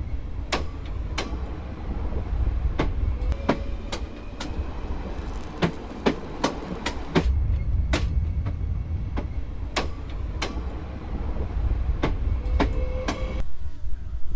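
SNCF Regio 2N double-deck regional train running past, with a low rumble and many sharp, irregular wheel clicks over rail joints and points, plus a few faint squeals.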